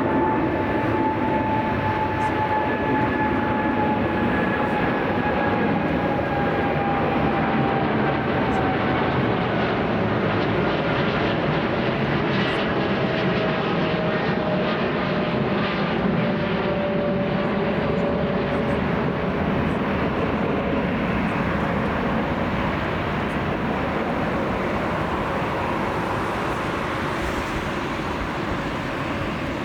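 Jet airliner's engines, a loud steady rush with a whine that slowly falls in pitch as the aircraft passes close by, easing a little toward the end.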